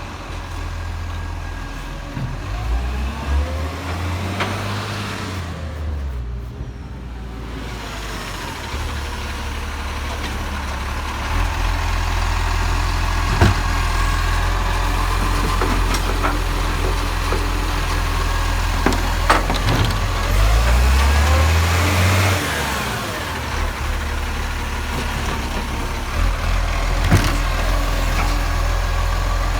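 Garbage truck engine running, its pitch rising and falling a few times as it pulls away and slows, with a few sharp knocks and rattles.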